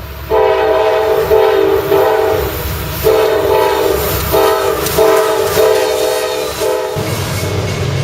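CSX freight locomotive's multi-chime air horn blowing a series of blasts, a chord of several tones, over the low rumble of the train. The horn stops about a second before the end, and the rumble gets louder.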